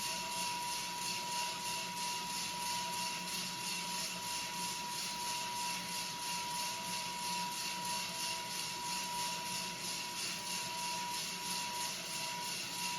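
Home coffee-roasting rig running with a homemade exhaust blower: a steady whirring rush of drawn air, with a steady high whistle, the 'poo' sound the exhaust makes, running throughout and wavering slightly near the end.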